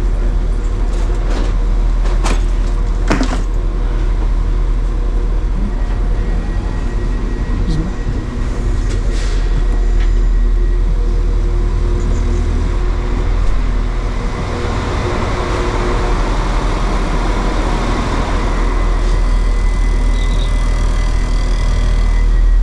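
Diesel train's engine idling, a steady low drone, with a few sharp clicks about two to three seconds in and a rising hiss in the second half.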